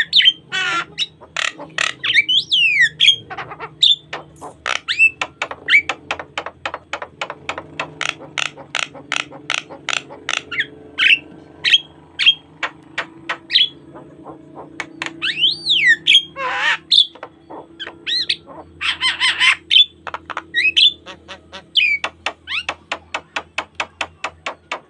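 Javan myna singing a varied song: long runs of short, sharp repeated notes broken by a few gliding whistles and harsh squawking calls.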